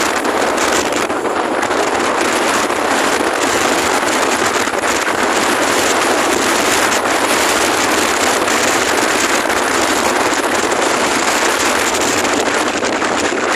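Strong wind buffeting the microphone: a loud, steady rushing with no breaks.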